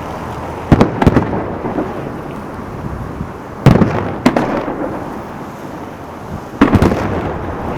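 Fireworks salute shells bursting with loud bangs, in pairs about a second in, near four seconds and near seven seconds. Each pair is followed by a long rolling rumble that echoes away.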